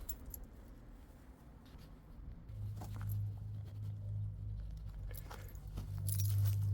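Footsteps crunching on dry ground, with a steady low hum setting in about two and a half seconds in and running on as the loudest sound.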